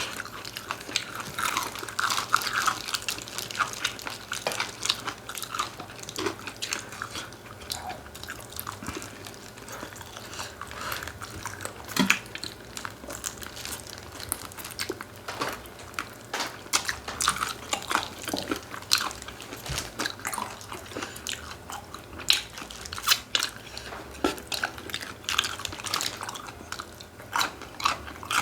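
Close-miked chewing and biting of chicken: irregular wet clicks and crunches of food being eaten, with no talking.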